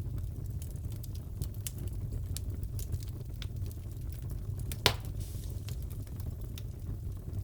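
Fireplace crackling: a steady low roar of the fire with scattered small crackles and one loud sharp pop about five seconds in.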